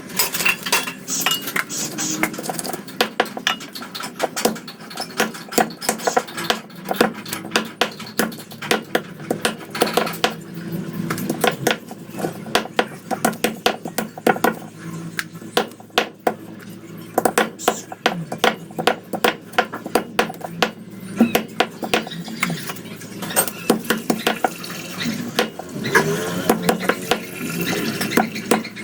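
Rapid, irregular knocks and clinks of a knife and metal utensils against dishes as chicken is cut up.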